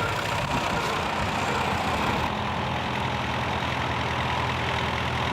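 Tractor engine running steadily, with a steady low hum. The sound changes slightly about two seconds in, where the high hiss drops away.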